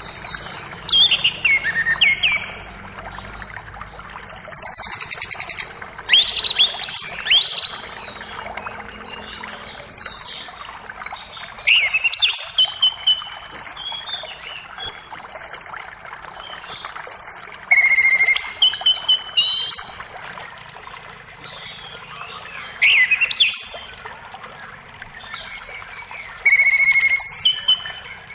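Songbirds calling over the steady rush of a forest creek: short, high chirps repeat every second or two, mixed with quick falling whistles and a couple of brief trills.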